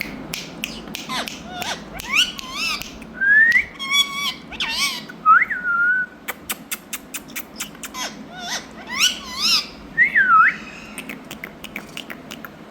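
Indian ringneck parakeet whistling and chirping: a run of gliding whistles that swoop up and down, with short chirps and many sharp clicks between them.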